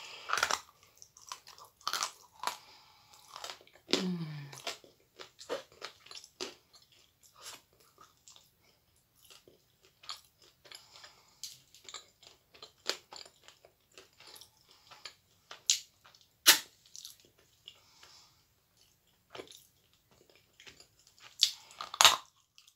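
Close-up biting and chewing of dry lumps of edible clay: irregular crisp crunches and grinding between the teeth, with sharper loud bites about sixteen seconds in and near the end. A short falling hum from the eater about four seconds in.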